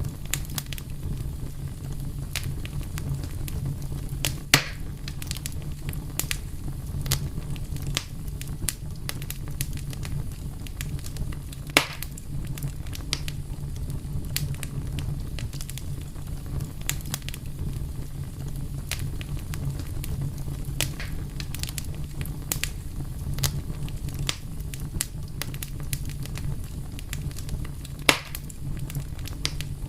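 Wood fire crackling steadily over a low rumble, with scattered small snaps and three louder pops.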